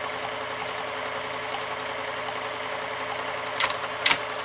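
Pfaff 1229 sewing machine running steadily as it stitches a dense buttonhole, the fabric feeding through. Two short, sharp sounds come near the end.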